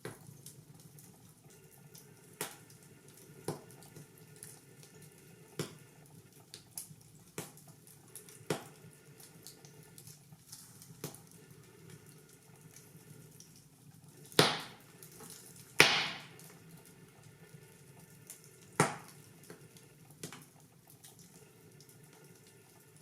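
Wood fire crackling in a fireplace: scattered sharp pops and snaps over a soft steady hiss, with two loud pops close together about two-thirds of the way through and another a few seconds later.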